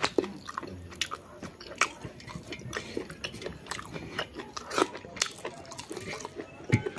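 Close-up eating sounds: chewing and biting on chicken curry and rice, with many short, irregular clicks and smacks.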